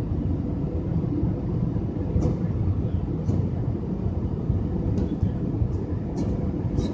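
Airbus A320 cabin noise: a steady low rumble, with a few short light rattles from the cabin scattered through it.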